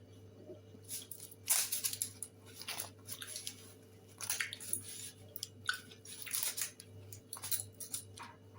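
A person biting and chewing grilled chicken close to the microphone, in irregular crunchy bites.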